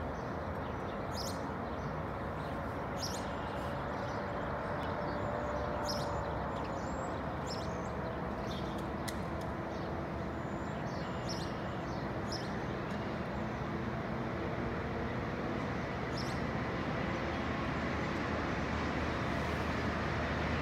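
Steady low drone of an approaching diesel GO Transit commuter train, heard at a distance over a general traffic hum and growing slightly louder near the end. Birds chirp briefly now and then.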